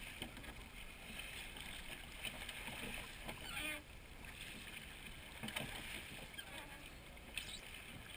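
Faint wash of water and wind as a crewed seine boat is rowed through chop, with faint knocks about every two seconds from the oars working.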